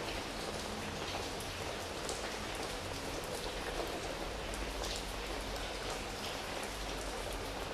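Rain falling steadily, with single drops standing out now and then.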